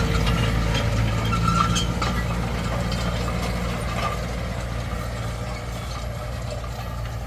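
Tractor engine running steadily, with metallic clicking and rattling from machinery over the first couple of seconds; the sound slowly grows quieter.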